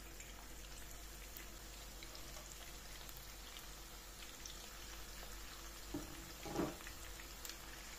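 Köfte frying in hot oil in a shallow pan: a soft, steady sizzle with faint crackles as raw meat patties are laid into the oil. A brief, louder sound stands out about six and a half seconds in.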